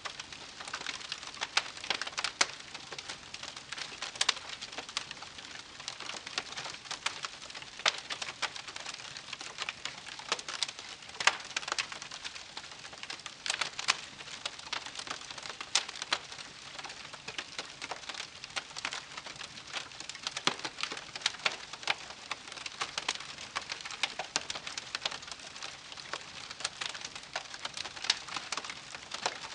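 Wood campfire crackling, a dense run of small snaps with frequent louder pops scattered throughout.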